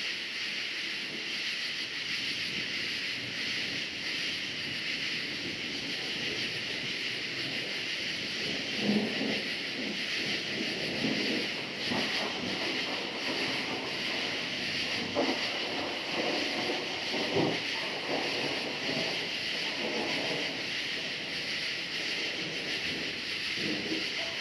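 Steady chorus of crickets, with low irregular rumbles of distant thunder rolling in about a third of the way through and again near the end.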